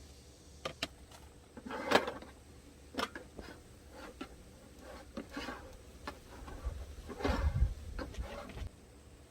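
Camping gear being handled: scattered light clicks and knocks with brief rustles, and a heavier low thump-and-rumble about seven seconds in.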